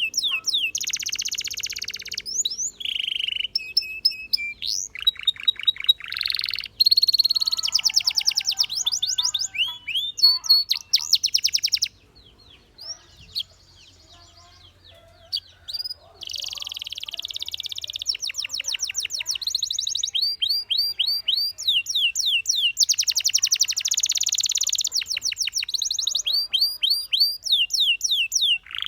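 Canary singing in fast trills and rolls of rapidly repeated down-sweeping notes, pausing for a few seconds about midway before the song resumes.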